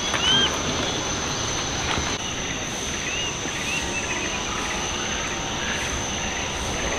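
Outdoor ambience: a steady high-pitched insect drone over a noisy background hiss, with a few short, arching high chirps, one right at the start and a few more about three to four seconds in.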